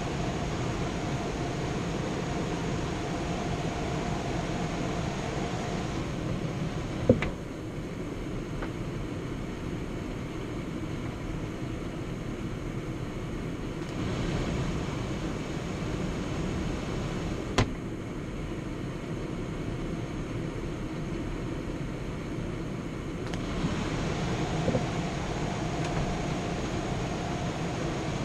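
Indoor air handler's blower running steadily, a broad airy whoosh with a faint hum that fades out about six seconds in and returns near the end. Two sharp clicks, about ten seconds apart.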